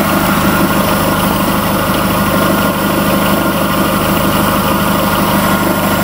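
Mk1 Audi TT's 1.8T turbocharged four-cylinder engine idling steadily, heard from underneath the car.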